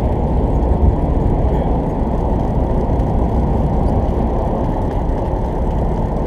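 A party fishing boat's engine running steadily: a loud, even drone.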